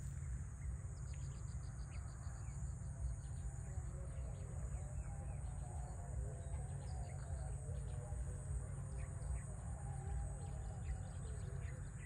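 Birds chirping and calling in open fields: quick series of short, high chirps, with lower warbling calls joining in the second half, over a steady low rumble and a faint high hiss.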